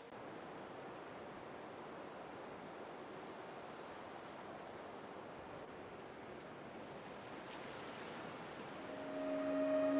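Steady wash of sea surf, a faint even rush without distinct breaking crashes. Music fades back in near the end.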